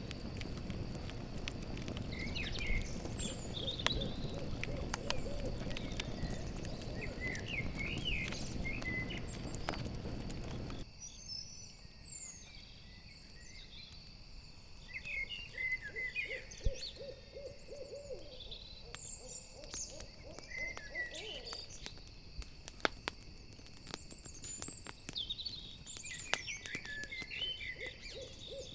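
An owl hooting in short runs of rapid low notes, repeated several times, with a campfire crackling, a steady high insect drone and scattered high chirps. A low rushing layer underneath cuts off suddenly about a third of the way in.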